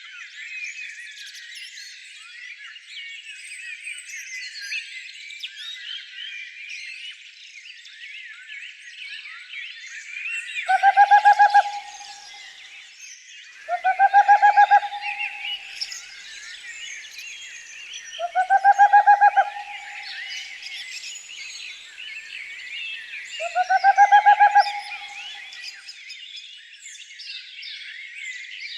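Dense chorus of small songbirds chirping and twittering, broken by four loud, harsh, lower-pitched calls about a second long each, spaced four to five seconds apart.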